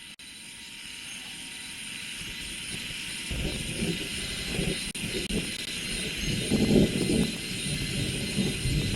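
Steady, high insect chorus with cicadas, fading up at the start. From about three seconds in, a low, uneven engine rumble comes in and grows louder, peaking near the seven-second mark.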